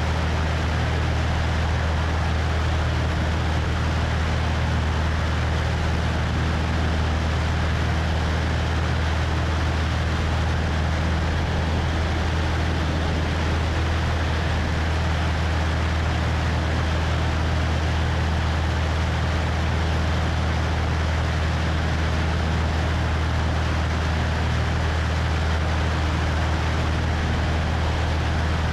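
Cessna 172's piston engine and propeller running steadily, with wind rushing over a wing-mounted microphone: a constant low drone under an even hiss.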